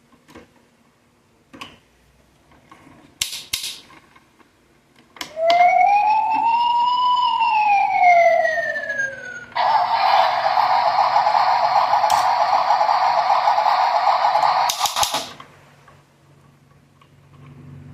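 Electronic sound effects of a 1/24-scale toy excavator truck playing through its small speaker: a single siren wail that rises then falls over about four seconds, then a harsh buzzing horn tone for about five seconds. A few clicks come before and just after.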